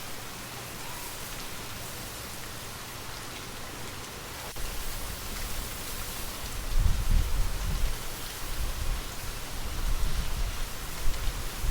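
Steady gentle rain falling. About four and a half seconds in, a low, uneven rumble joins it and swells around the seven-second mark.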